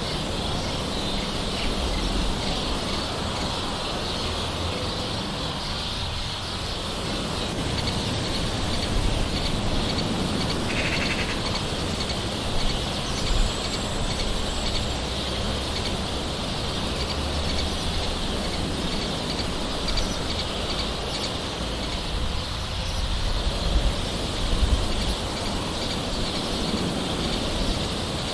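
Steady gentle rain hiss, with birds calling now and then over it, one short call about eleven seconds in.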